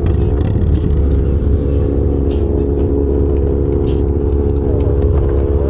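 Motorcycle engines running steadily, a constant low rumble with an even hum and a few light clicks and clatters.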